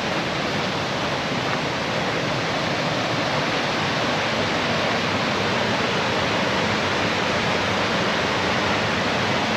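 Waterfall in heavy flow, a steady even rush of falling water, swollen by a night of heavy rain.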